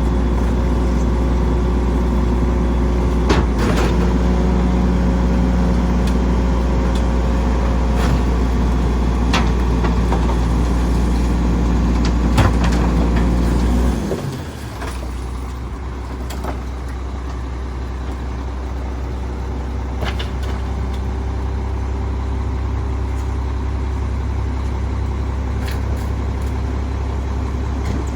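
Volvo Xpeditor rear-loader garbage truck running at a raised, steady engine speed with a few sharp knocks and clanks; about halfway through the engine note drops abruptly and it settles to a quieter, lower idle.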